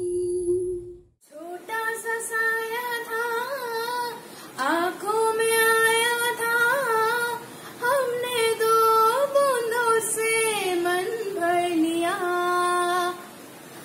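A girl singing solo without accompaniment, holding long sliding notes. One singer's held note ends about a second in and, after a brief gap, a second girl takes up the song.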